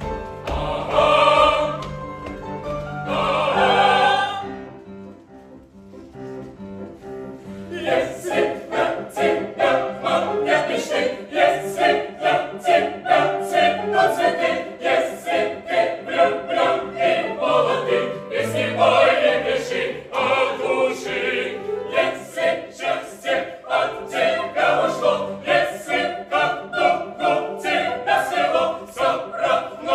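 Operatic choir and soloists singing with instrumental accompaniment. Two loud sung phrases open, then a brief quieter lull, then the ensemble comes back in over a steady, bouncy pulse.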